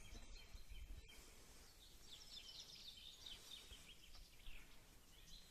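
Faint songbird singing outdoors: a quick run of high chirps from about two seconds in, over a low rumble of wind on the microphone.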